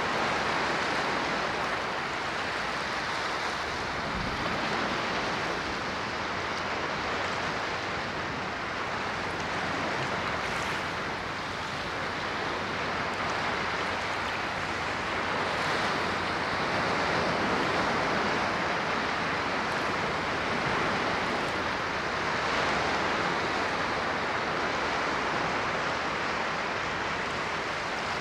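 Ocean waves washing onto a shore: a steady surf hiss that swells and eases gently every few seconds.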